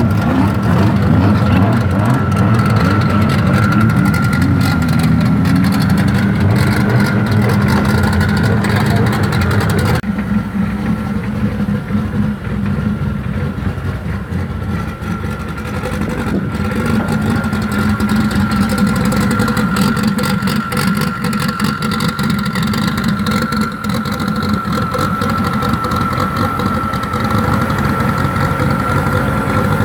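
Car engines running at idle, with a steady high-pitched whine over them. The sound changes abruptly about ten seconds in.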